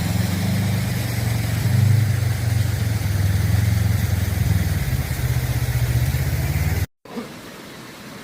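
Vehicle engine running steadily at low revs, then cutting off suddenly near the end, followed by a faint steady hiss.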